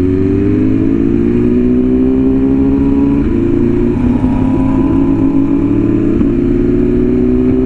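BMW S1000RR inline-four engine pulling at steady throttle, its note climbing slowly in pitch with a brief break about three seconds in, heard from the rider's seat with wind rushing past.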